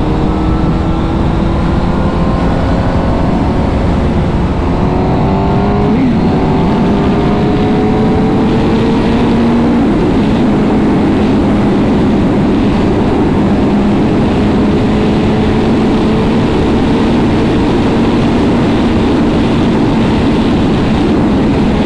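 Honda CBR1000RR Fireblade's 999 cc inline-four engine accelerating under the rider, its pitch climbing through a gear, dropping at a gear change about six seconds in and climbing again, then holding a steadier pitch from about ten seconds. Heavy wind rushes over the microphone throughout.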